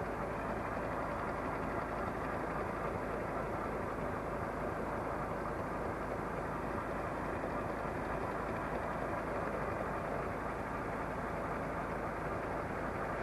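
International 475 tractor engine running steadily while it drives the log-loading crane trailer and its grab.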